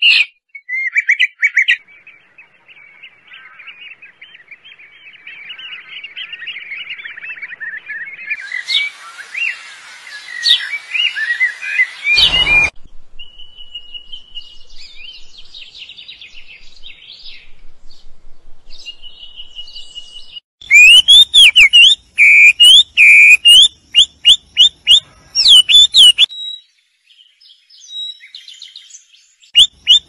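Small birds chirping and singing: a run of different songs and calls that change every few seconds, from a quiet warbling song to loud, sharp chirps repeated over and over about two-thirds of the way through.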